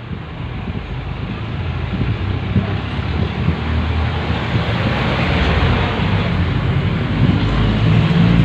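Road vehicle noise: a low engine rumble and traffic hiss that grows louder from about two seconds in and peaks near the end, as of a vehicle passing close by.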